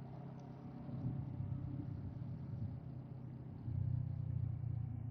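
Motorcycle engine running steadily under way, growing louder about three and a half seconds in.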